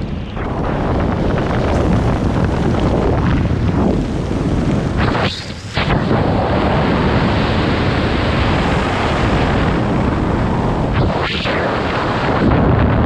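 Strong wind rushing over the microphone: a loud, steady rush that dips briefly about five and a half seconds in and again near eleven seconds.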